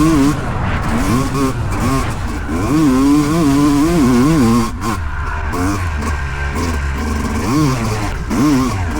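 Dirt bike engine revving up and down repeatedly, its pitch rising and falling with the throttle, then dropping to a lower, steadier note about halfway through.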